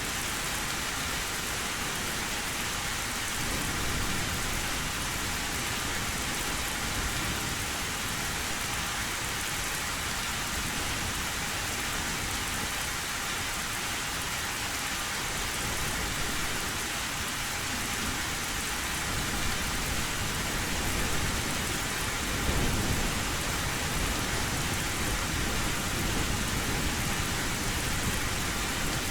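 Heavy rain falling steadily on a metal roof, with low thunder rumbling twice: a few seconds in and again about two-thirds of the way through.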